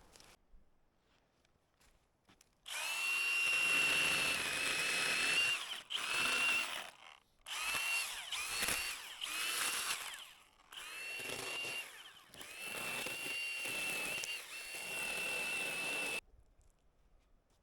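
Cordless electric power tool running in about six bursts of motor whine, each spinning up at its start, with brief pauses between them and the pitch dipping at times as it takes load.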